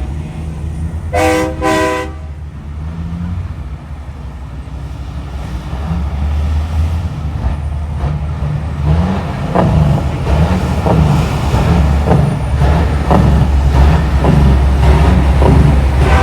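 Two short blasts of a semi-truck's multi-tone air horn about a second in, followed by the heavy diesel engines of big rigs rumbling and revving, growing louder as the trucks pass.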